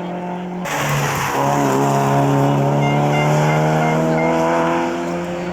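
Race car engine at high revs, dropping briefly about a second in and then pulling steadily higher, louder in the middle as the car passes and fading near the end.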